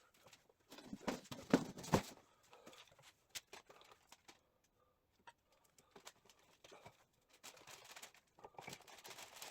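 Tools and parts being handled at a workbench: a cluster of knocks and clatter about a second in, then scattered clicks and rustling.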